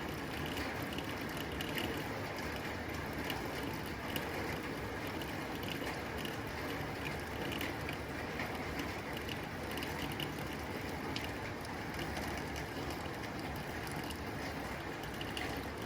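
Heavy rain falling on a tin roof: a steady, dense patter of drops striking metal, with many fine ticks.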